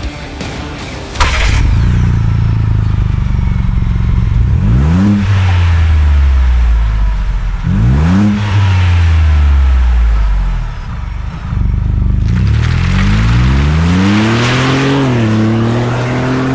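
2021+ Ford Bronco 2.7L twin-turbo EcoBoost V6 through a Borla aftermarket exhaust, starting up about a second in and idling, then blipped twice in quick revs and given one slower, longer rev before settling to a slightly raised idle.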